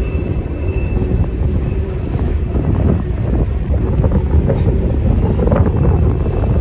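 Freight train of CSX open-top hopper cars rolling past: a steady low rumble of steel wheels on rail, with scattered clanks about two thirds of the way through and a faint high squeal near the start.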